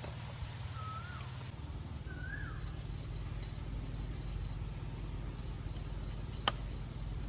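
Steady rain hiss with a low rumble underneath, and a bird giving a short whistled call that rises and falls, twice. Light scattered ticks follow, and one sharp tap comes near the end.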